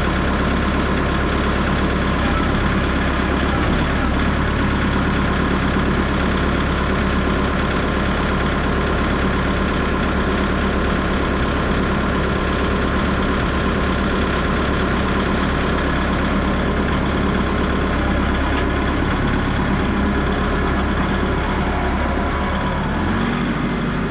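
A vehicle engine running steadily at an unchanging speed, its hum shifting slightly near the end.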